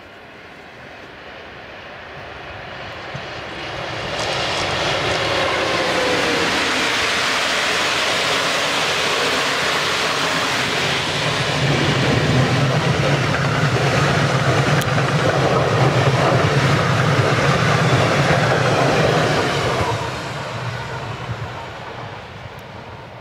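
Passenger train passing close by at speed, with the rumble of wheels on rail. The noise builds as it approaches over the first few seconds and stays loud while the coaches go by, with a steady low hum in the second half. It drops away fairly quickly a few seconds before the end.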